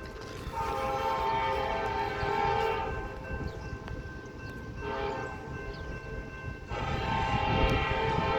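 CSX freight locomotive's multi-chime air horn sounding in long, short, long blasts, the tail of the grade-crossing signal, with the train's rumble growing as it approaches.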